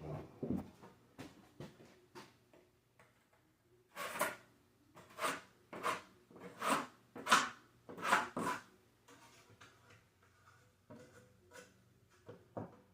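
Drywall knife scraping joint compound across a drywall patch: small clicks and taps, then a run of about six scraping strokes in the middle, followed by fainter scrapes.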